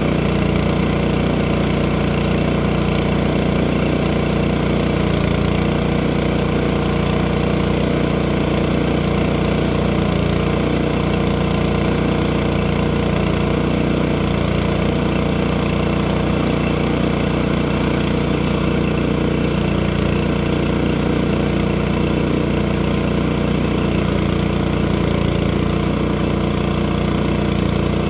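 An engine running steadily at one constant speed, with no change in pitch or loudness.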